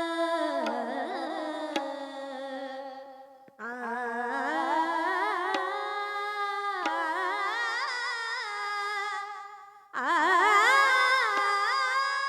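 A woman singing a wordless, ornamented alap in Marathi devotional abhang style: three long held phrases, each full of rapid wavering turns of pitch, with short breaks between them.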